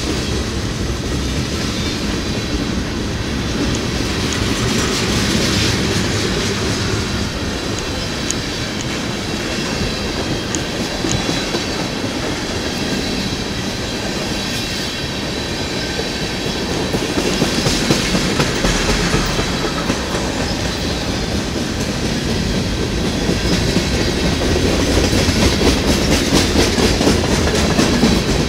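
Freight cars of a CN mixed freight train, including lumber-loaded flatcars, tank cars and gondolas, rolling past with a steady rumble. The wheels click rhythmically over the rail joints, getting a little louder in the second half.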